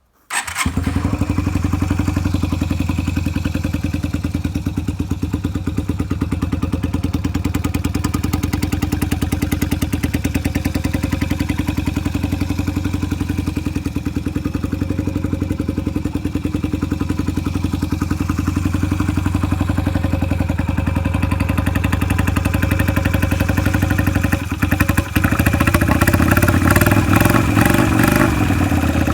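Yamaha Virago 125's small V-twin engine starting up and idling steadily. About 25 seconds in it briefly dips, then runs louder.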